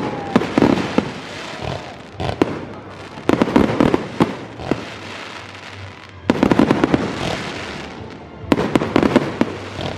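Aerial firework shells bursting with sharp bangs and crackling, coming in three dense waves between quieter spells.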